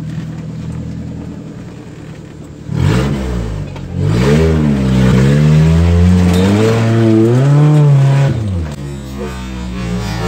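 Off-road 4x4's engine idling, then revved up and down several times from about three seconds in, louder, with a couple of clattering knocks as it starts. It drops back to a steady idle near the end.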